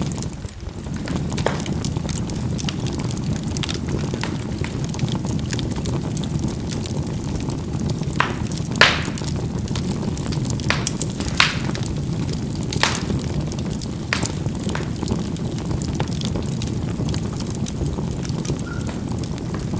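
Charcoal burning in a fireplace: a steady low rush of flame with scattered sharp crackles and pops as the charcoal bursts, the strongest pops a little under halfway through.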